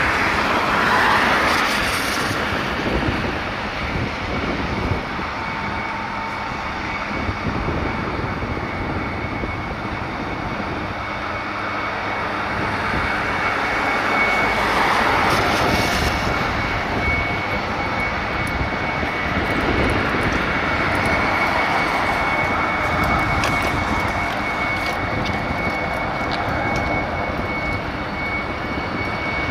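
Jet aircraft engines running with a steady rushing noise. A thin, steady high whine comes in about halfway through and holds.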